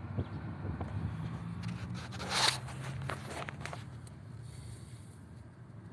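A vehicle engine running with a low steady hum, and a short loud scraping rustle about two seconds in, followed by a few clicks.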